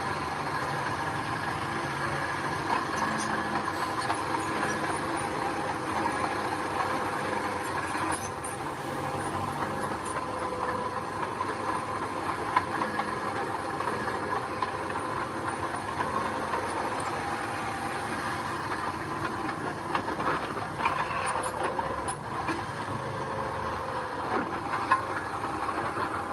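Heavy diesel earthmoving machinery running steadily, with a few short clanks.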